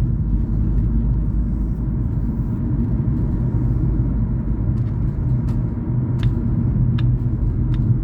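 Steady low rumble of road and engine noise inside a moving car's cabin, with a few light clicks in the second half.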